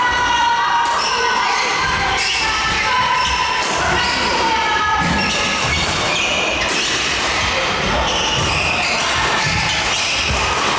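Badminton doubles play: repeated sharp racket strikes on the shuttlecock and many short squeaks of court shoes on the floor.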